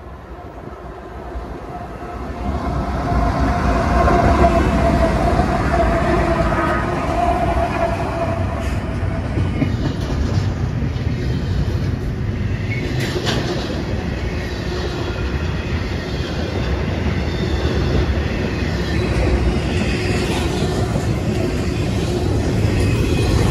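CSX intermodal freight train led by a GE ET44AH and a GE AC4400CW passing close by. The locomotives' diesel engines grow louder over the first few seconds, then a steady rumble and clickety-clack of wheels on rail continues as the well cars go by.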